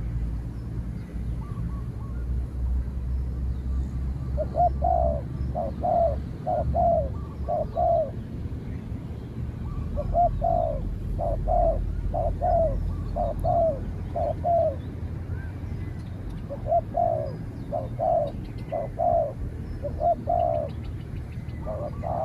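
Spotted doves cooing in three repeated bouts of deep, rhythmic coo phrases, a few seconds apart: a decoy male and a wild dove calling against each other. Faint chirps of small birds and a low rumble sit underneath.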